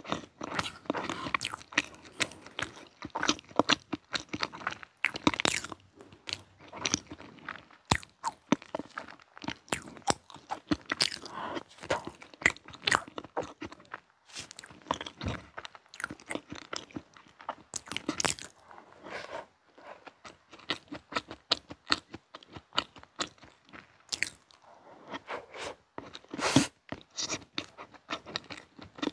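Close-miked chewing and biting of chocolate-coated chocolate pound cake: soft, moist mouth sounds broken by many irregular short clicks and smacks.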